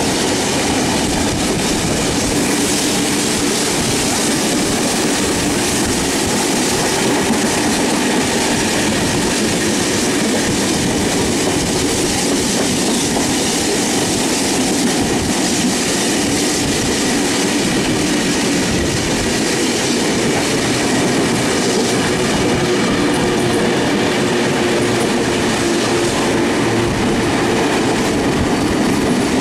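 Steam-hauled passenger train running, heard from on board: a steady, loud noise of wheels on the rails and the moving train.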